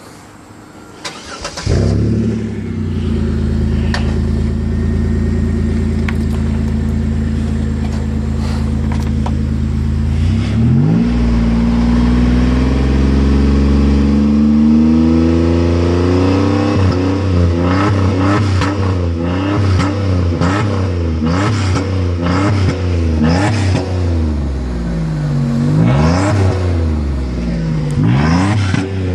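Oldsmobile Intrigue's 3.5-litre DOHC V6, with its exhaust cutout open, starts up about two seconds in and idles steadily. About ten seconds later it revs up and holds higher revs, then is blipped up and down repeatedly through the second half.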